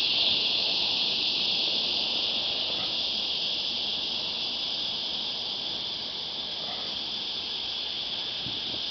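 Cicada chorus: a steady high-pitched buzz that fades a little over the stretch.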